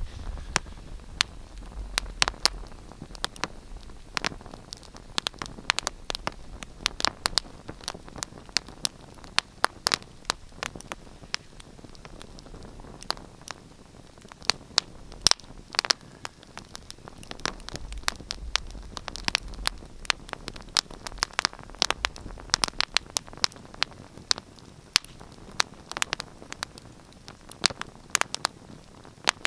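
Wood fire crackling and popping: many irregular sharp snaps over a soft steady hiss, with low rumbles now and then.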